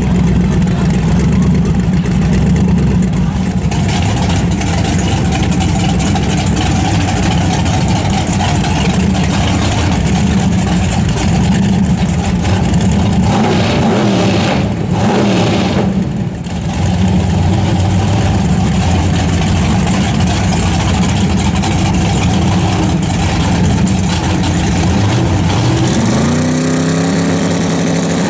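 Drag cars' engines running loudly at a no-prep drag strip, with the loudest note steady for most of the stretch. Near the end one engine revs up in a smooth rising pitch.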